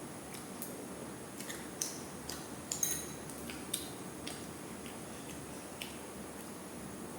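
Scattered light clicks and clinks of tableware during a meal, about ten at irregular intervals, most of them in the first four seconds.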